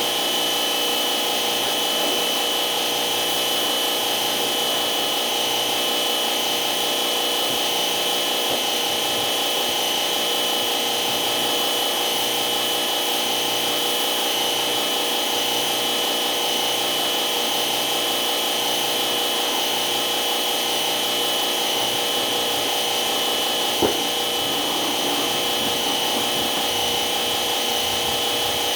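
Steady machine noise with a high whine held throughout and a faint pulse about once a second; a single click near the end.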